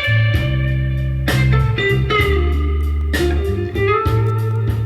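Blues instrumental fill: an electric guitar lead plays bending notes over a steady bass line and beat, with no vocals.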